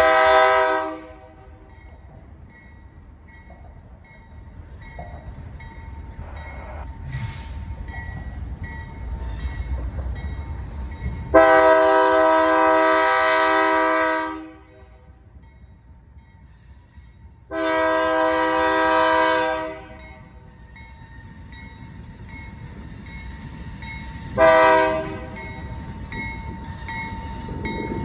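Freight locomotive's multi-chime air horn sounding a short blast, then two long blasts, then another short one, over the low rumble of an approaching freight train that grows louder near the end.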